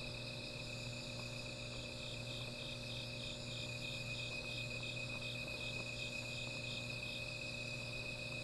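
Night insects calling: steady high-pitched trills, with one insect chirping about four times a second from about two seconds in until about seven seconds. A steady low hum runs underneath.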